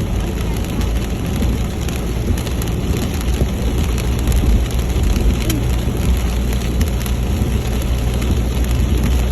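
Rain hitting a moving vehicle's windshield and roof during a storm, with scattered sharp drop ticks over a steady low engine and road rumble.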